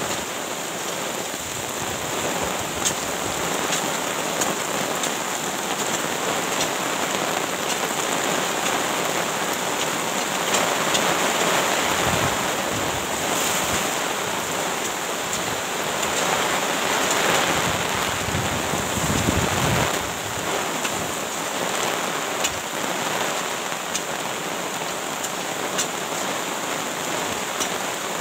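Steady rain hissing, swelling louder twice in the middle, with a few sharp ticks.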